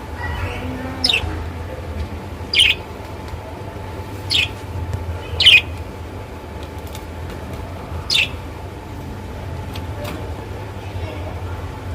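Small pet parrots giving short, shrill squawks, about five spaced a second or more apart with a few fainter ones near the end, over a steady low hum.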